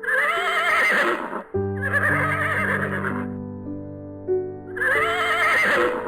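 A horse whinnying three times, each call about a second and a half long with a quavering pitch, over background music with held notes.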